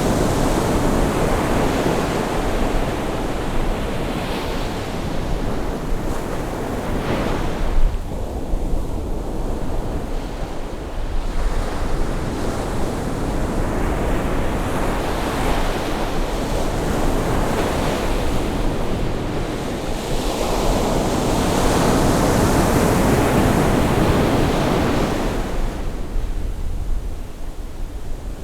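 Sea waves breaking and washing on the shore as the tide rises, in swells that come and go every few seconds, with wind on the microphone.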